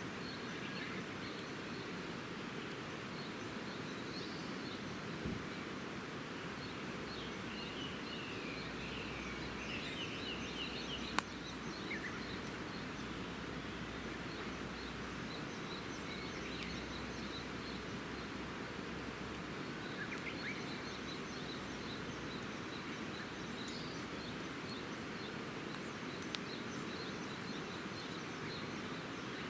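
Campfire ambience: a steady noisy hiss with birds chirping now and then, and one sharp crack from the burning wood about eleven seconds in.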